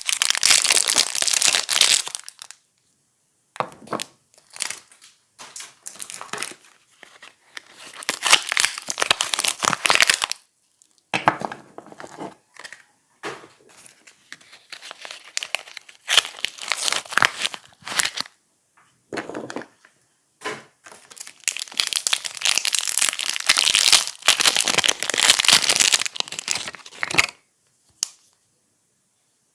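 Soap packaging being handled and torn open, with crinkling and tearing in several bouts separated by short pauses.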